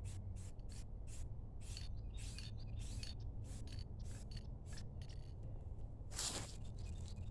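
Aerosol spray paint can spraying in many short spritzes, a quick run of brief hisses with a longer one about six seconds in.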